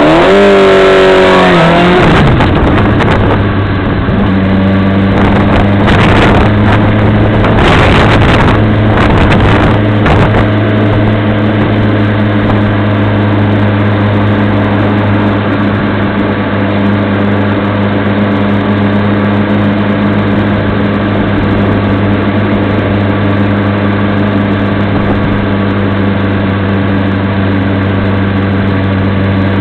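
Motorcycle engine revving up sharply at the start, easing back over the next couple of seconds, then running at a steady drone while cruising. A few short rushes of noise come between about five and ten seconds in.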